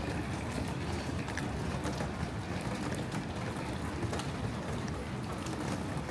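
Rain in a city street: a steady wet hiss over a low rumble, with scattered sharp ticks of drops.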